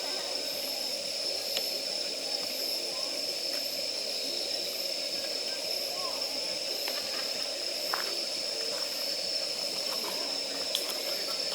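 Campfire of damp firewood burning, with a few sharp crackles over a steady hiss and a constant high thin tone.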